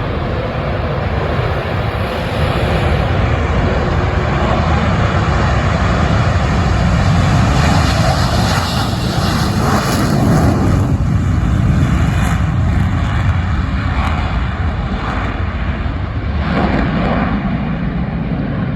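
F-35 Lightning II jet's single afterburning turbofan engine, a loud continuous roar as the fighter passes. The roar swells to its peak around the middle and eases toward the end.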